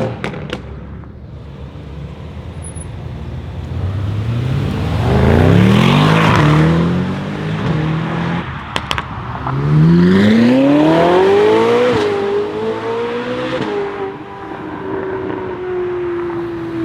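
Mercedes-AMG GT R's twin-turbo V8 with an aftermarket exhaust accelerating: the engine note climbs in pitch, eases, then climbs again harder after a couple of sharp cracks. A quick drop in pitch at an upshift follows, and the note then sinks slowly as the car pulls away.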